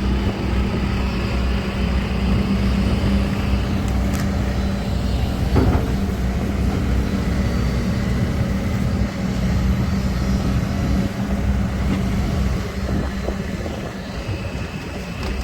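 Kobelco SK200-10 excavator's diesel engine running steadily under load as the machine works itself out of mud on timber mats. There are a couple of brief knocks about four and five and a half seconds in, and the engine eases off slightly near the end.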